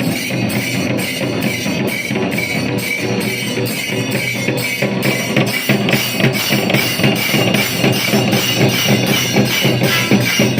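Traditional temple percussion music: drums beating a fast, steady rhythm of about four strokes a second, with jingling metal percussion over it.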